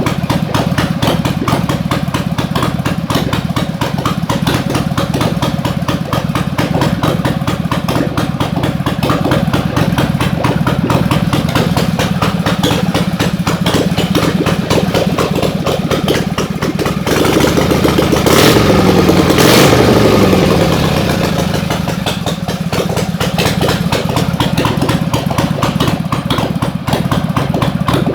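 1961 Harley-Davidson Panhead V-twin engine running at idle on its first run after a full engine and transmission rebuild. About seventeen seconds in it is revved up, then drops back to idle.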